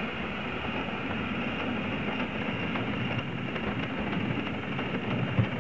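3.5-inch gauge live-steam Prairie tank locomotive, a steady hiss and rumble with no clear exhaust beat.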